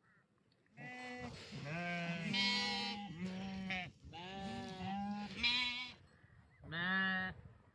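Livestock bleating: about six loud, wavering bleats in quick succession, some at a higher pitch than others, with a short pause before the last one.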